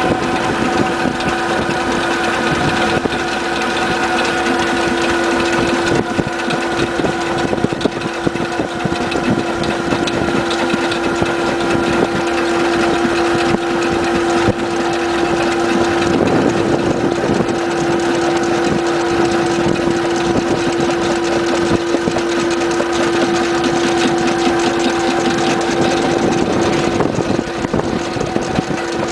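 Engine running steadily during a chain-ferry crossing: a constant, unchanging drone with a strong hum and fainter higher tones over a rough mechanical noise.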